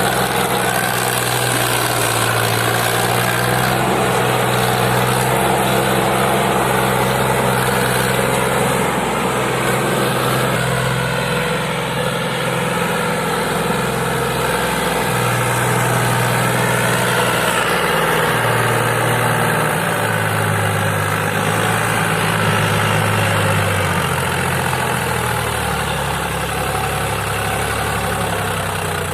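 Powertrac Euro 50 tractor's diesel engine running steadily, its speed stepping up and down a few times through the stretch.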